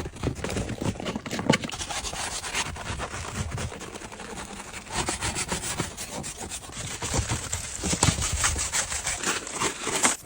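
Scrubbing: a brush or pad rubbed hard over a surface in quick back-and-forth strokes that go on without a break.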